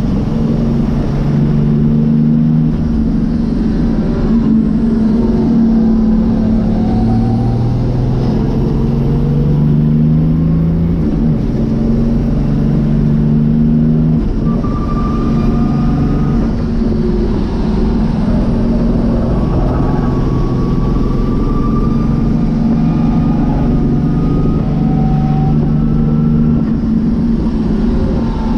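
Nissan RD28 straight-six diesel engine in an S13 race car, heard from inside the cabin, running hard under race load. Its note climbs and falls with the throttle, with sudden drops about eleven and fourteen seconds in.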